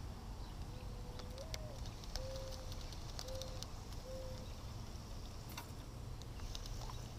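Mourning dove cooing: one longer coo that steps up in pitch at its end, then three shorter, lower coos, all over about four seconds. A steady low rumble runs underneath.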